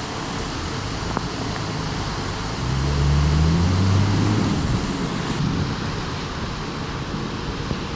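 Steady rain and wind hiss from a thunderstorm, with wind buffeting the microphone. A low rumble swells about three seconds in and fades a couple of seconds later.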